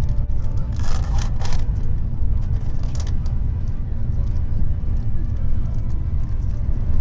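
Steady low rumble of a Shinkansen N700-series train running, heard from inside the passenger car. About a second in, plastic wrapping crinkles briefly as a packet is peeled open, with a few faint rustles later.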